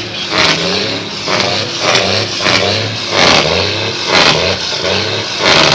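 Truck engine revving, with sharp bursts about twice a second.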